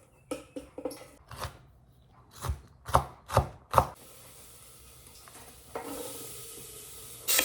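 Kitchen knife chopping on a cutting board: a run of irregular knocks, the last four heavier and more spaced, then a faint steady hiss.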